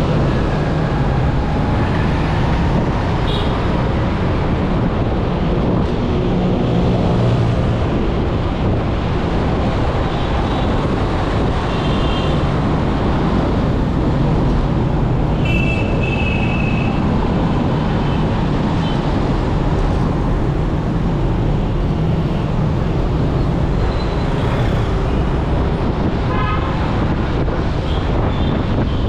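Steady road traffic noise, a loud low rumble, with short car horn toots sounding several times.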